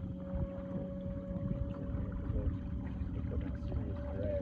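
Electric motor of a powered kayak running with a steady whine, over a low rumble of water and wind on the microphone as it moves along.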